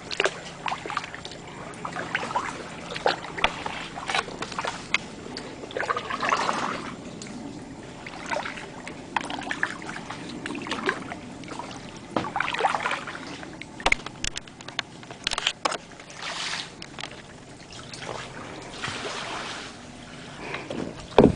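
Kayak paddle strokes splashing in shallow saltwater, each swell of splashing and dripping coming every couple of seconds, with a few sharp knocks around the middle.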